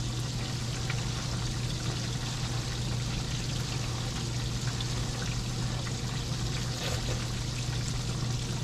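Chicken fried steak frying in a pan of hot grease, a steady sizzle, over a constant low hum.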